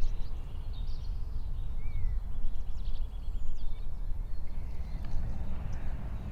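Small birds chirping and whistling, with a short rapid trill near the middle, over a loud, uneven low rumble.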